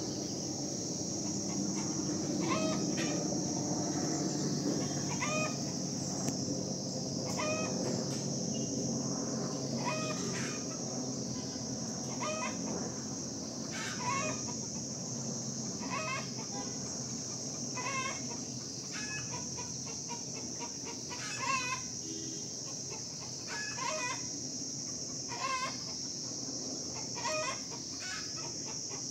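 A bird calling over and over with short rising calls, one about every one and a half to two seconds, over a steady high-pitched hiss. A low rumble sits underneath, strongest in the first few seconds.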